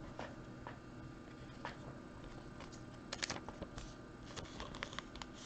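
Faint handling of trading cards: light scattered clicks and taps as cards are slid and set down, with a quick run of clicks a little after three seconds in.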